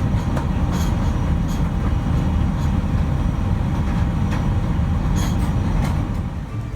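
Steady low rumble of cabin noise inside a Boeing 747-400, with a few faint clicks; it eases slightly near the end.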